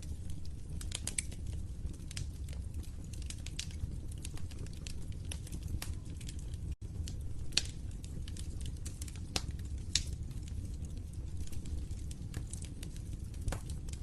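Wood fire burning in a fireplace: a steady low rumble of flames with frequent small crackles and a few sharper pops in the second half. The sound cuts out for an instant about halfway through.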